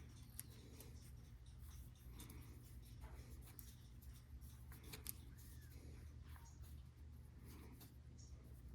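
Near silence: low room hum with faint, scattered clicks and light scraping from small hand work.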